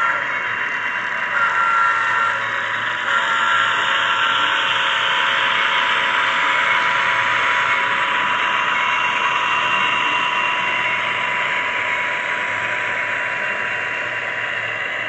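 Model train running on the layout: a steady mechanical rush with a couple of steady whining tones, easing off slightly near the end.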